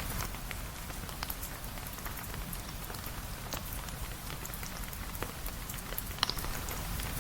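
Steady rain falling, an even hiss with scattered sharp ticks of drops, a few stronger ones about six seconds in.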